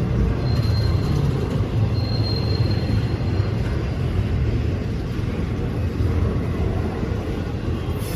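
A train rolling past with a steady low rumble of wheels and cars. A faint, thin wheel squeal comes in briefly about half a second in and again from about two to three and a half seconds.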